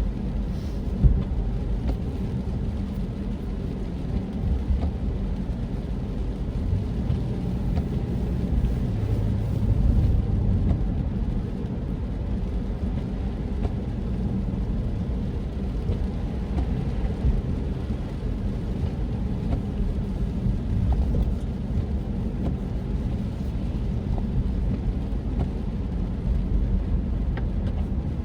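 Steady low rumble of a car's engine and tyres heard from inside the cabin while driving, with a single sharp knock about a second in.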